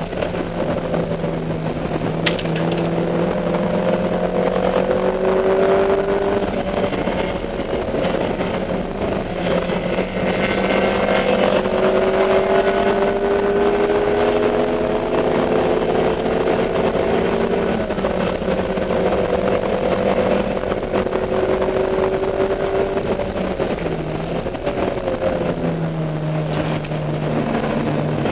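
Dodge Neon race car's four-cylinder engine under load, heard from inside the car. Its pitch climbs over several seconds, drops back and climbs again several times as it accelerates and shifts. There is one sharp click about two seconds in.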